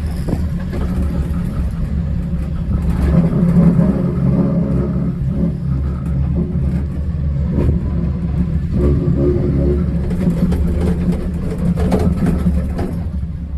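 Ocean Park cable car cabin riding up the cable: a steady low hum and rumble, with scattered clicks and rattles, most of them in the last few seconds.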